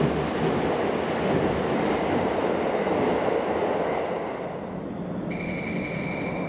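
A Keio New Line electric train running through the underground platform at Hatagaya, a dense rumble that eases off after about four seconds. Near the end a steady high electronic tone starts, typical of a station chime or buzzer.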